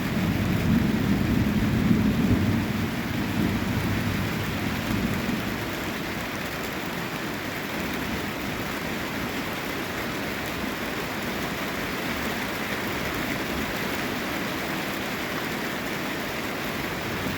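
Heavy rain falling steadily, with a low rumble of thunder that fades out over the first five seconds.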